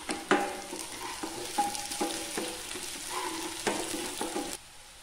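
Chopped onions, curry leaves and green chillies sizzling in coconut oil in a nonstick wok while a wooden spatula stirs them, knocking and scraping against the pan repeatedly. The sizzle cuts off suddenly near the end.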